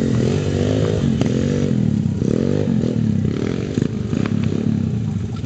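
Small pit bike engines revving, the pitch rising and falling as the throttle is worked, with a few sharp clicks.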